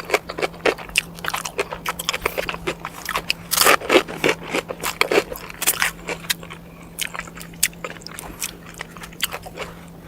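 Close-miked eating: chewing and crunching in quick irregular clicks and scrapes, busier in the first half, over a faint steady hum.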